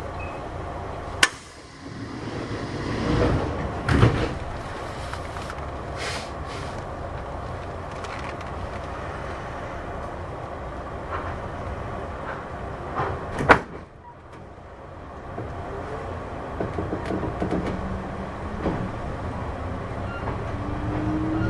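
Inside a Kintetsu 6200 series train standing at a station: sliding doors knock open near the start and shut with a sharp bang about halfway through. The train then pulls away, its running sound building with a rising motor tone toward the end.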